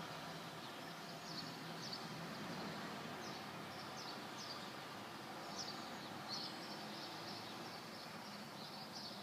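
A small songbird chirping, short high notes repeated roughly once or twice a second, over faint steady outdoor background noise.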